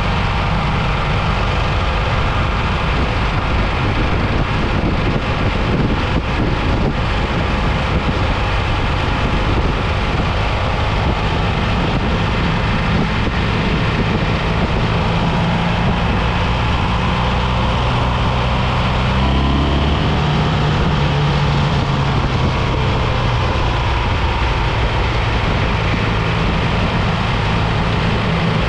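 BMW R1300GS boxer-twin engine running under way, under steady heavy wind rush on the microphone. The engine note changes pitch about two-thirds of the way through.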